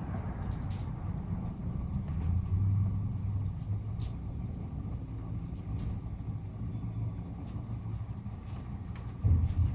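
Low, steady rumble of a vehicle engine running, swelling briefly near the end, with a few faint clicks.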